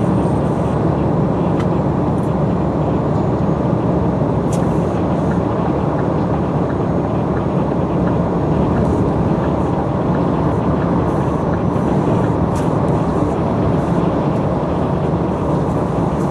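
Scania truck running at a steady cruise: a constant engine drone mixed with road and tyre noise, holding the same level throughout.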